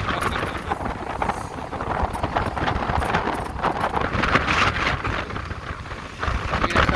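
Wind buffeting the microphone on a moving electric motorcycle, with road and tyre noise underneath and no engine sound; the rush swells and eases as the ride goes on.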